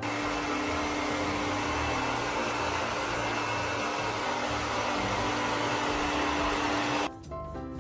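Steady whir of a small electric motor pushing air, with a constant low hum under the rushing noise. It cuts off suddenly about seven seconds in.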